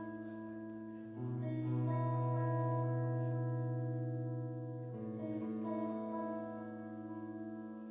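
A live band playing the instrumental opening of a song: sustained, ringing chords that change about a second in and again about five seconds in.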